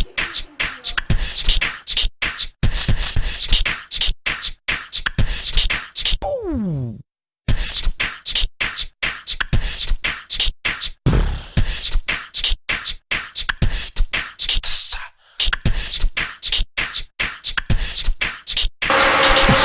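Fast, irregular run of sharp percussive mouth sounds, beatboxing, with a falling swoop and a brief cut-out about seven seconds in. Near the end it switches abruptly to a steady noisy background with a hum.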